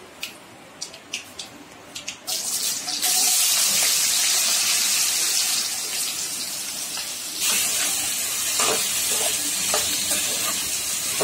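A tempering of cumin, mustard seeds, dry chillies and curry leaves crackles in hot oil in a kadai, with scattered sharp pops. About three seconds in, raw potato cubes go into the oil and a loud, steady sizzle takes over as they start to fry.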